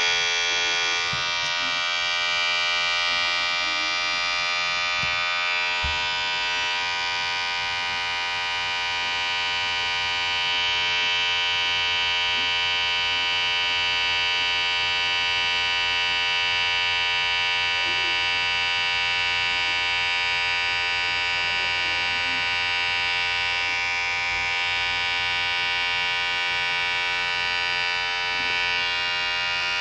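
Electric hair clipper running continuously with a steady buzzing hum that holds the same pitch throughout.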